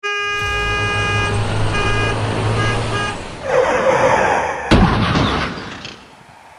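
A horn-like steady tone sounds in several blasts over a low rumble. It is followed by a loud rush of noise with a sharp crack in the middle, which then fades away.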